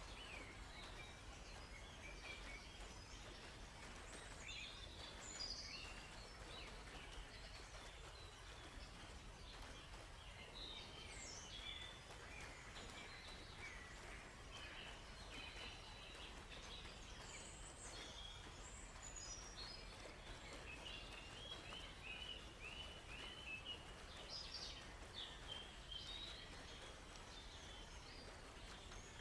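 Several songbirds chirping and calling, faint, with short scattered notes throughout and a quick run of repeated chirps a little past two-thirds of the way in, over a steady low background noise.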